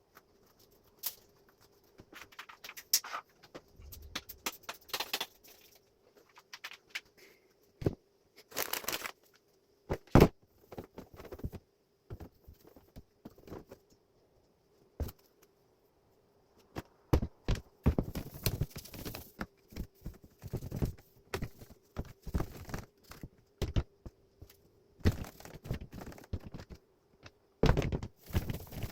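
Irregular clicks, knocks and short rustling scrapes of hands working on plastic air-conditioner parts, denser in the second half, over a faint steady hum.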